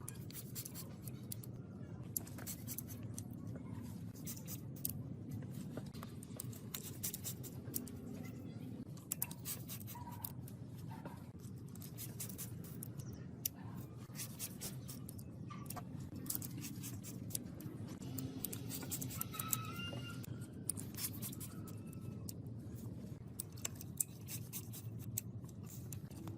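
Irregular small clicks and scratching from hand work, over a low steady rumble.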